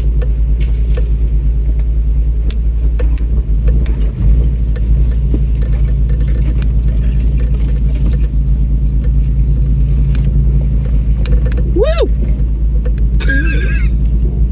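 Off-road truck's engine running steadily at low speed, heard from inside the cab as it crawls a rough, washed-out trail, with scattered knocks and rattles from the body and suspension. A short rising-and-falling squeak comes near the end.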